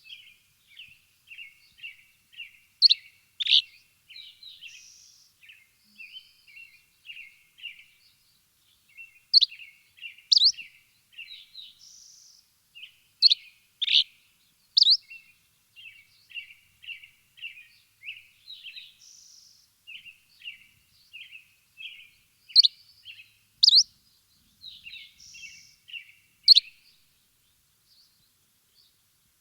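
Songbirds chirping: a fast run of short chirps, broken every few seconds by a louder pair of sharp rising notes. The calls stop near the end.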